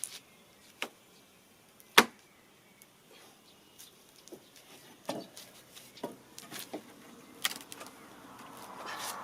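Scattered light knocks and clicks, with one sharp, louder knock about two seconds in and a cluster of smaller ones later. Near the end a steady rushing noise swells in.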